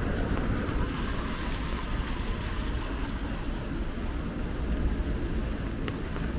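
Steady rumble and hiss of city traffic on rain-wet streets.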